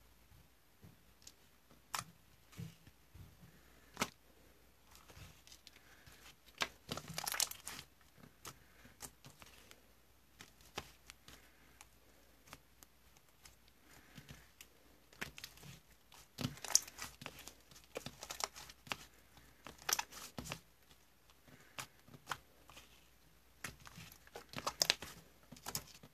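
Slime being squeezed and stretched by hand, giving irregular sticky clicks, pops and crackles, with louder clusters now and then.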